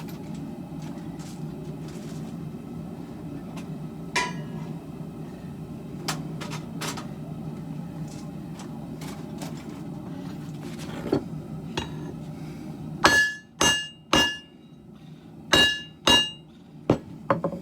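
Steady low rumble with scattered light clicks, then about thirteen seconds in, five ringing hammer blows on steel at the anvil, in a group of three and a group of two.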